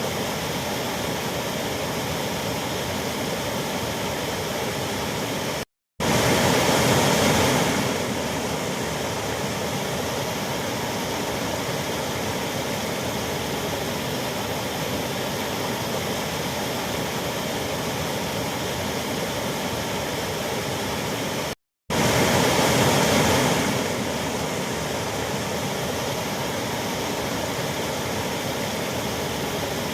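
Waterfall: a steady rush of falling water. It cuts out abruptly twice, about a fifth of the way in and again about two-thirds of the way in, each time coming back slightly louder for a couple of seconds before settling.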